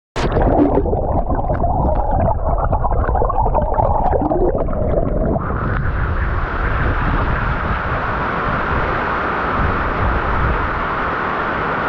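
Rushing water of a mountain waterfall and its cascading pools, loud and continuous. For the first five seconds or so it is muffled with a gurgling quality; then it changes suddenly to a brighter, steady rush.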